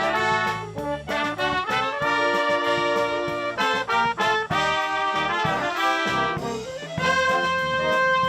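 Brass band playing a dance tune, trumpets and trombones carrying the melody, with a chord held for about a second and a half in the middle.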